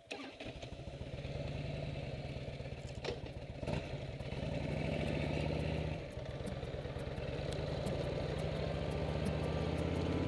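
Motorcycle engine running, getting louder over the first few seconds, with a brief drop about six seconds in before it steadies again.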